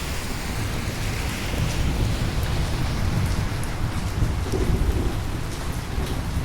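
Steady heavy rain with a continuous low rumble of thunder underneath and scattered drops ticking on hard surfaces.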